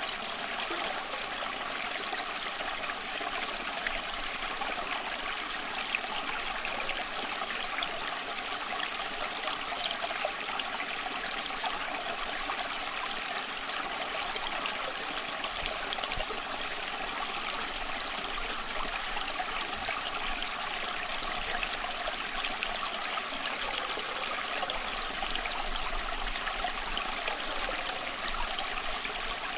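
Small stream running and trickling over stones, a steady splashing with many small bubbling details.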